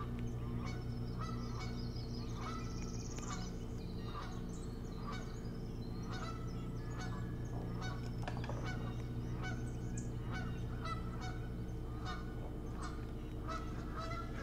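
Birds giving many short calls in quick succession over a steady low hum.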